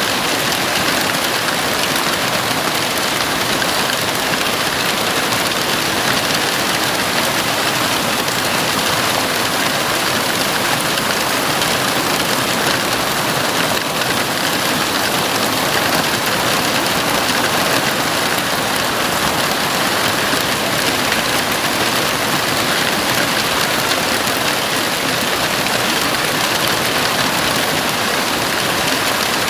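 Heavy rain falling steadily on a house roof, a dense, even hiss of drops with no breaks.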